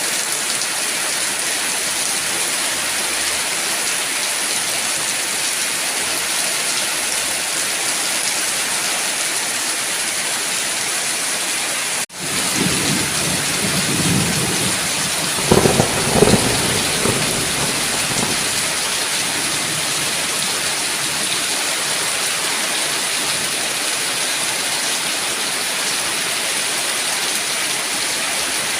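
Steady heavy rain hissing. A little under halfway through the sound cuts out for an instant, then thunder rumbles for several seconds, loudest about five seconds after the cut, before the rain carries on alone.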